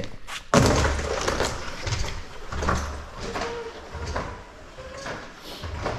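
Rubbing and bumping of something sliding down an old plastic playground slide. It starts suddenly about half a second in, with low knocks every half second or so.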